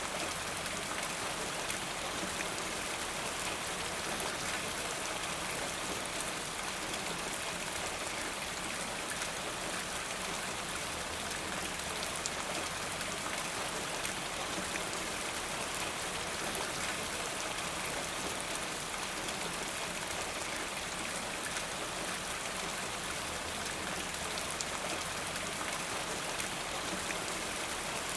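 Steady rainfall, an even hiss of many small drops.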